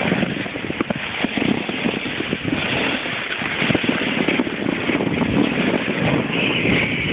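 A sled towed over snow behind a truck: a continuous rough rumbling and scraping with irregular knocks and rattles.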